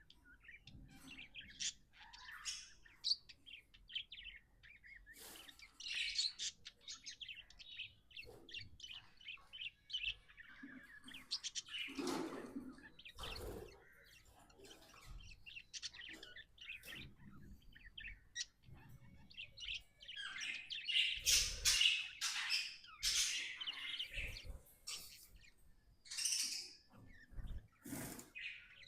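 Budgie (budgerigar) chirping and warbling in a continuous stream of short, high chirps, the contented chatter of a happy budgie. A few soft knocks or rustles come through now and then.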